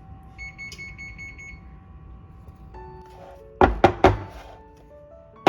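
A rapid run of about ten short high electronic beeps, like an appliance or timer alert, in the first second and a half. Background music with three loud beat hits then comes in past the middle.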